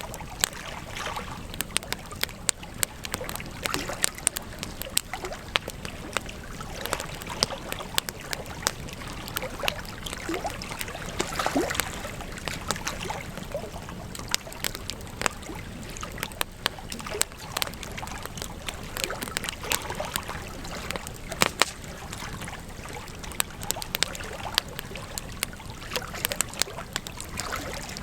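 Wood campfire crackling, with frequent irregular sharp pops and snaps over the steady rustle of the flames, and a brief swell of louder crackling about eleven seconds in.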